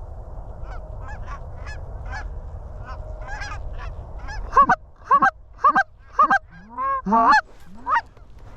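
Geese honking. Many geese call steadily at a distance, then a run of about ten loud, close honks begins about halfway through.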